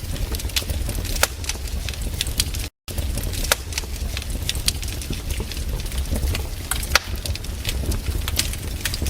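Wood campfire crackling: irregular sharp pops and snaps over a low steady rumble of the burning fire. The sound cuts out completely for a split second about three seconds in.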